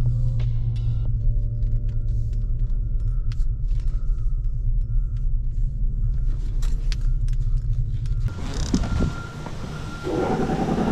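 Low, steady rumble of a vehicle's engine and road noise heard inside the cabin as it is driven slowly and backed up, with car-stereo music dying away in the first second. About eight seconds in the rumble cuts off, giving way to a brighter hiss and a few knocks.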